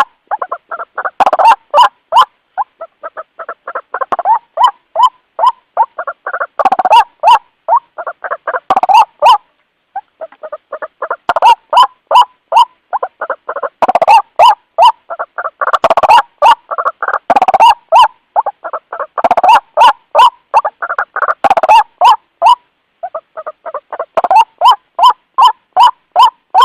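White-breasted waterhen calling: long runs of rapid repeated notes, several a second, breaking off briefly twice. A lure call of the bird calling to others of its kind.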